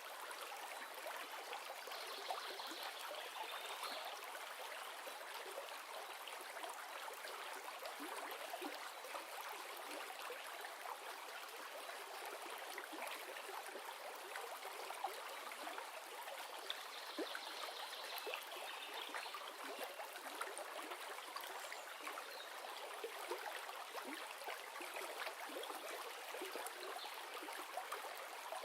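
River water flowing steadily: an even rushing and trickling with small splashes throughout.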